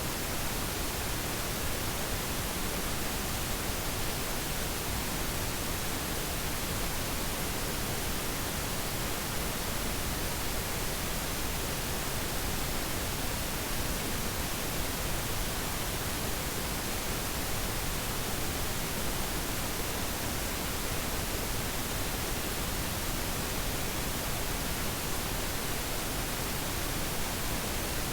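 Steady, even hiss of static-like noise that does not change.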